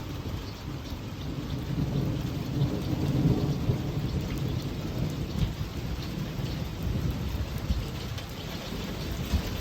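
Heavy rain falling steadily, with a low rumble of thunder that swells about two seconds in and fades off over the next few seconds.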